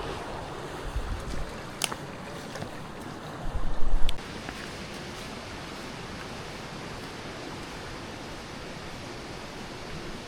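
Steady rushing of a stream's flowing water, with two sharp knocks and a short low buffet on the microphone around four seconds in.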